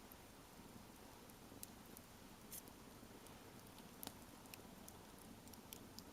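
Campfire burning quietly, wood crackling with scattered irregular sharp pops over a low steady hiss.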